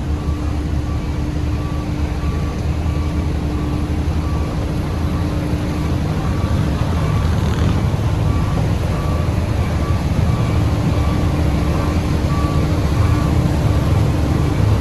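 Heavy diesel construction machinery running steadily, with a reversing alarm beeping at an even pace, under a second between beeps, throughout.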